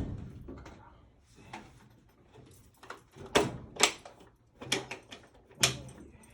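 A string of about six sharp knocks and clunks at uneven intervals, the loudest between three and six seconds in.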